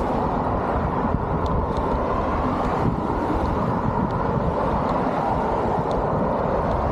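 Steady rushing of wind on the microphone mixed with tyre rumble from a folding e-bike rolling along a path.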